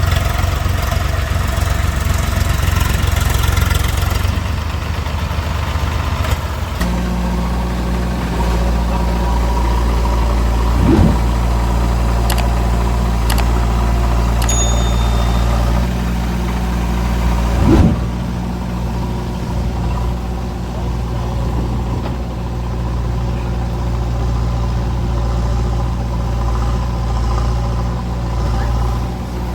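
A heavy diesel engine of a farm or earth-moving machine running steadily. Its note drops lower about seven seconds in, and its pitch dips briefly twice after that. A few sharp clicks are heard between the two dips.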